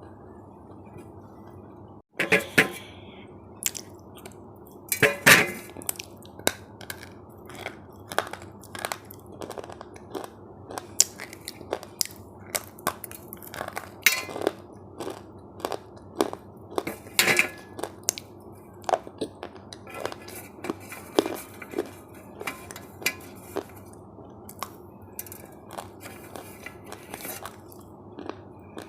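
Crunchy food being bitten and chewed close to the microphone: irregular sharp crunches and clicks, sometimes several a second, over a steady low hum. It starts about two seconds in, just after a brief dropout.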